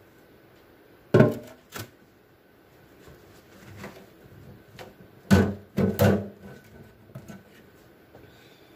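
Sharp knocks and clatters of things being handled and set down during fridge cleaning: a loud knock about a second in with a lighter one just after, then a quick cluster of three knocks about five to six seconds in.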